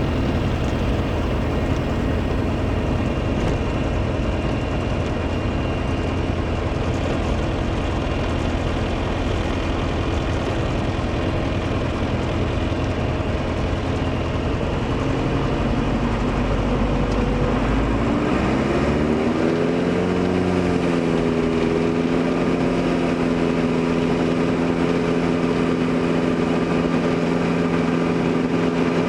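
Diamond DA40 single-engine piston airplane's engine and propeller droning steadily in the cabin during the climb. About 18 to 20 seconds in the pitch glides and shifts and the deep rumble falls away, then it settles to a steadier, smoother drone as the power setting changes.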